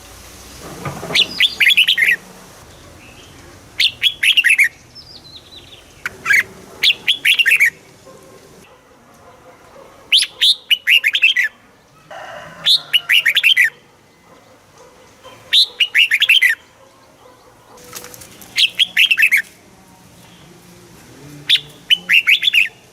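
Red-whiskered bulbul singing: short, bright phrases of quick chattering notes, each about a second long, repeated every two to three seconds.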